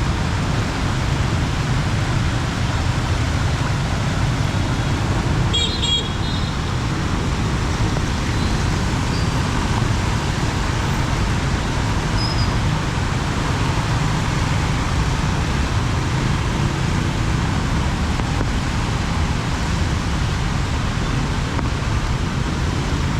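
Steady noise of a heavy downpour mixed with road traffic. A brief high-pitched sound cuts through about six seconds in.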